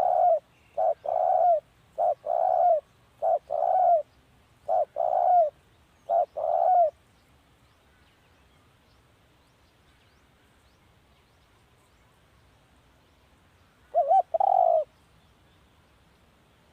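Spotted dove cooing: paired coos, a short note followed by a longer one, repeated about every second and a quarter for the first seven seconds. After a pause, one more phrase comes about fourteen seconds in.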